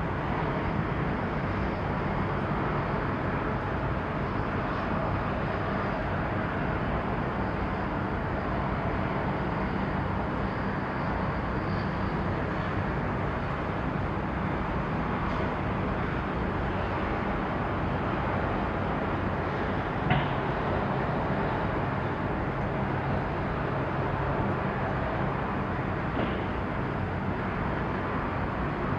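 Steady outdoor harbour background noise, an even rumble with a faint low machine hum under it. A single short click about twenty seconds in.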